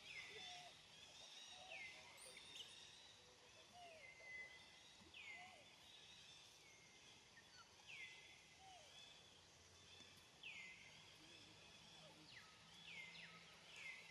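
Faint forest ambience: a bird repeating a short whistle that falls sharply in pitch, every couple of seconds, over a steady high hiss.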